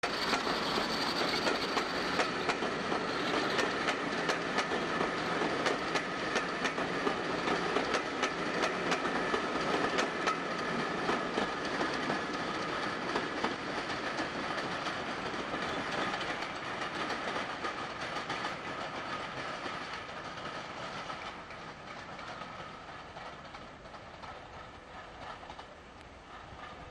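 A train running past, its wheels clicking rhythmically over the rail joints, with a steady whine over the rumble. It fades away over the last several seconds as it moves off.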